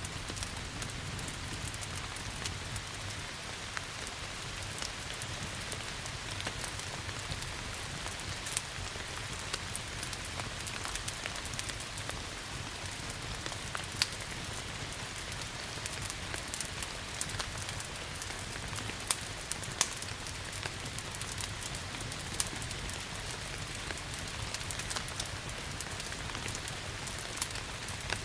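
Steady rain mixed with a crackling wood fire: an even patter with sharp pops scattered irregularly throughout.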